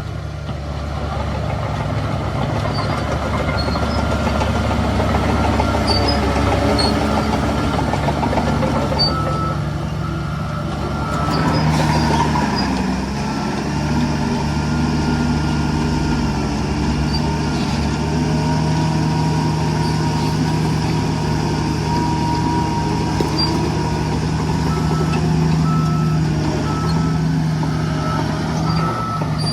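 Heavy diesel construction machinery running steadily, with a vehicle's reversing alarm sounding a run of short, evenly spaced beeps about a third of the way in and again near the end.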